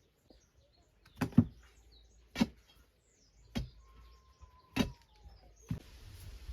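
Five dull thuds about a second apart, soil being tamped down around a freshly set wooden roof pole to secure it. Birds chirp faintly in the background.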